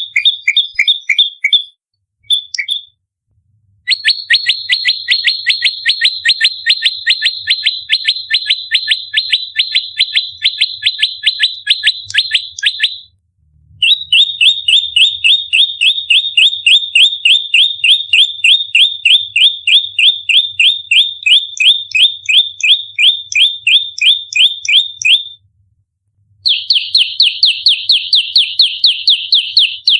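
Prenjak lumut giving its rapid fighting call: long runs of sharp, evenly spaced chirps, about four a second, broken by brief pauses about 3, 13 and 26 seconds in.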